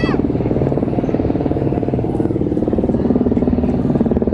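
A steady low rumble of a running motor, with rapid even pulsing. Right at the start, a child's high drawn-out call falls away.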